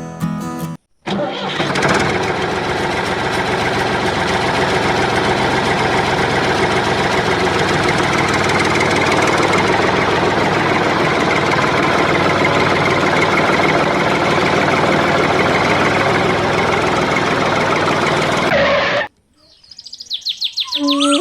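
Small engine of a DIY mini tractor running steadily. It starts about a second in and stops abruptly near the end.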